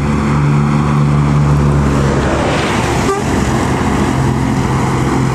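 Scania K360 bus's diesel engine running steadily as the bus drives past, with a rush of tyre and wind noise swelling about two and a half seconds in as it comes closest.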